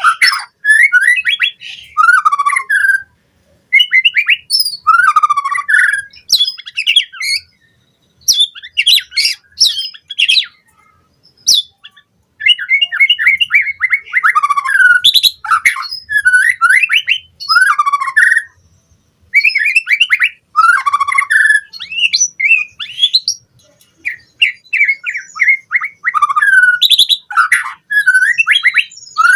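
White-rumped shama singing: bursts of varied whistled phrases and rapid trills of repeated notes, each a second or two long, with short pauses between them.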